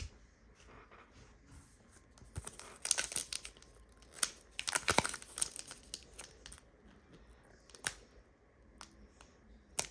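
A Panini Prizm basketball card pack's wrapper being torn open and crinkled, in two crackly bursts about three and five seconds in, with scattered small clicks of handling between.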